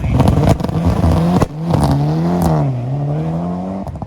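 Rally car launching from the start line: the engine held at high revs with a string of sharp pops and crackles, then about a second and a half in it pulls away. Its note rises, drops at a gear change, rises again and fades as the car drives off.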